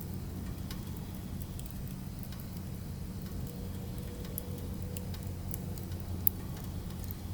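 Firewood burning, with scattered small crackles and one sharp pop about six seconds in, over a steady low hum.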